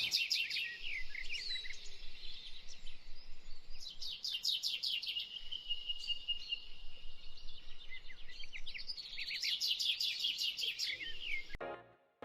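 Wild birds singing: bouts of rapid high chirps and trills, with one held whistled note in the middle. The birdsong cuts off suddenly near the end.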